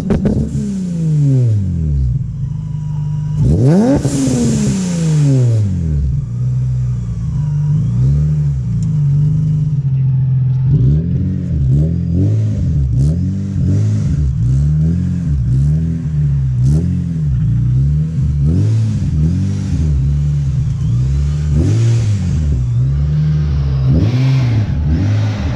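Supercharged Nissan 350Z's 3.5-litre V6 through an ISR single exit exhaust. The engine revs up and drops back sharply several times, then settles into a run of short rev blips about once a second.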